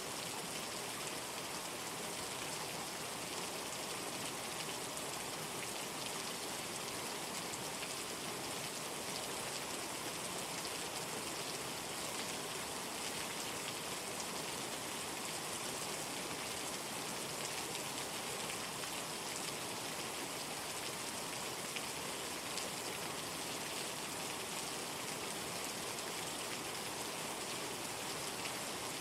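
Steady rainstorm rain: an even hiss of rainfall with a fine patter of drops, unchanging throughout.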